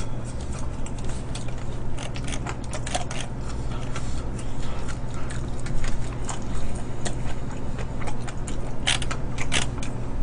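A person chewing fried chicken: scattered crunches and clicks, loudest about nine seconds in, over a steady low hum.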